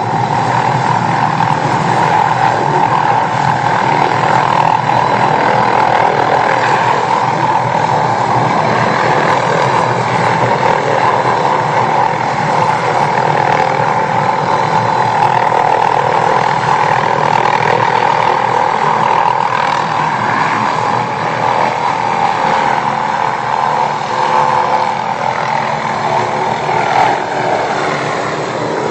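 Police helicopter running loudly and steadily: rotor and turbine noise with a steady whine. Near the end, the pitch of the whine falls.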